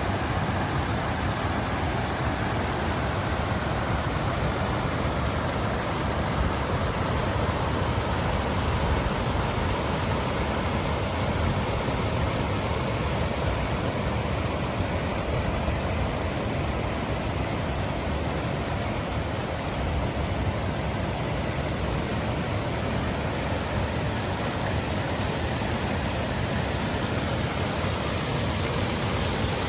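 Stream flowing over rocks and small check dams: a steady, even rush of running water.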